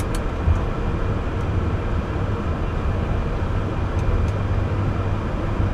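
Steady flight-deck noise of a four-engine Airbus A340 taxiing after landing, with a constant low hum.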